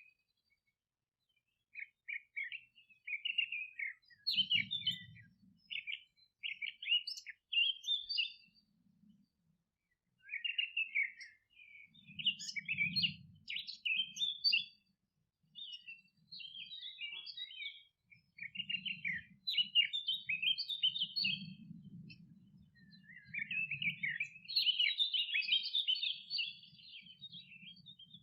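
Small songbirds chirping and twittering in a run of short, quick phrases with brief pauses between them, growing busier near the end.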